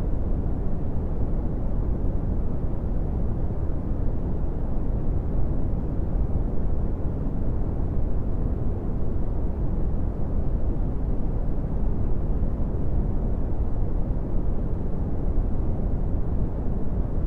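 Steady brown noise: a deep, even rumbling hiss with most of its energy at the bottom, fading out above about 1 kHz, unchanging throughout.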